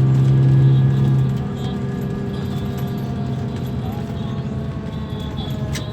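Scania K340 bus engine running steadily with a strong low hum that eases off after about a second and a half. There is a sharp click near the end.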